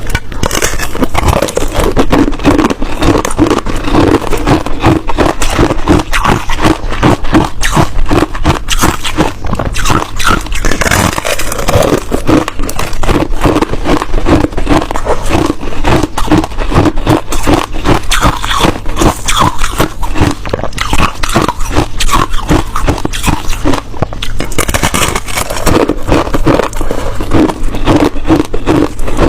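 Close-miked chewing of hard ice: a dense, unbroken run of crisp crunches as the ice is bitten and ground between the teeth.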